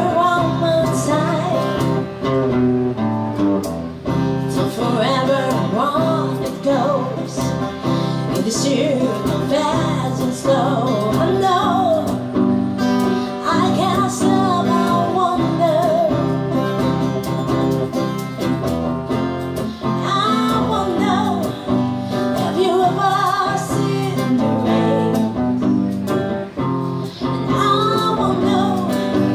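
Acoustic guitar playing chords under a singing voice, a two-piece acoustic band performing a song.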